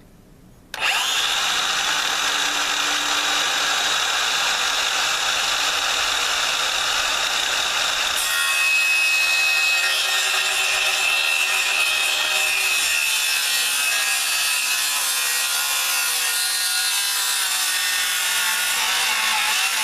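Milwaukee circular saw starting about a second in and cutting steadily through a thick piece of wood from its second side, finishing a cut the blade could not make in one pass. The tone of the cut changes about eight seconds in.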